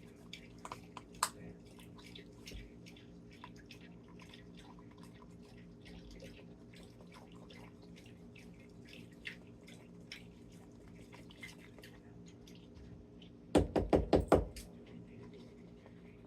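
Kitchen handling sounds while the salad is seasoned: scattered light ticks and clicks over a steady low hum. Near the end comes a quick run of about six loud knocks within a second.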